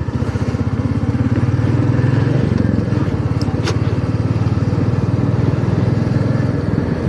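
Royal Enfield Meteor 350's single-cylinder engine running under way, a steady low pulsing exhaust note. Its pitch shifts about two and a half seconds in.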